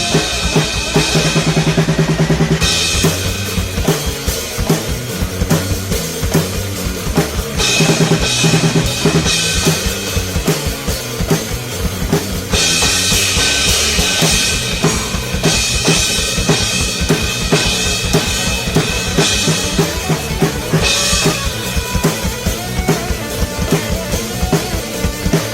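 Drum kit played fast and hard along with a recorded progressive-metal track, dense bass drum and snare strokes under it. Bursts of cymbal wash come in suddenly several times, about 2.5, 7.5, 12.5 and 21 seconds in.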